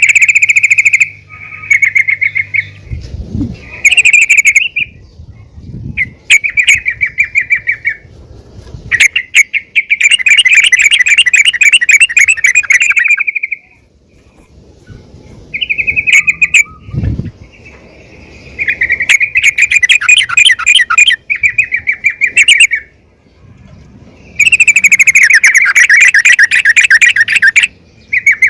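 Female yellow-vented bulbul (trucukan) calling in rapid chattering phrases of one to four seconds, repeated about ten times with short pauses. The recording is made to call a male.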